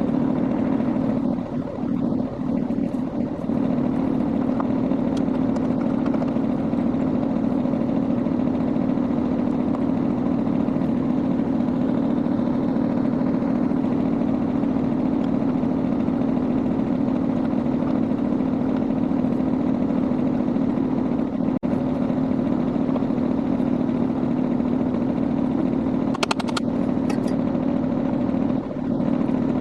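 Kubota B21 tractor's diesel engine running steadily, with a few light clicks and clanks.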